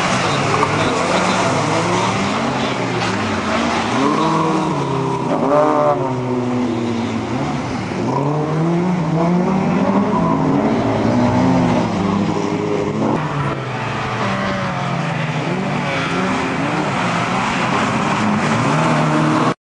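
Several VAZ (Lada) rally cars' four-cylinder engines revving hard as they race together on a dirt track. Their pitch rises and falls over and over as they accelerate, change gear and lift for corners.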